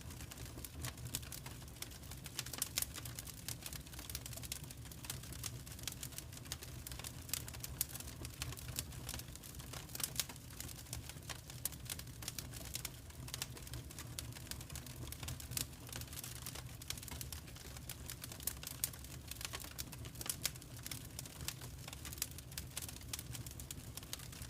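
Wood fire crackling in a fireplace: frequent irregular snaps and pops over a steady low rumble of the burning fire.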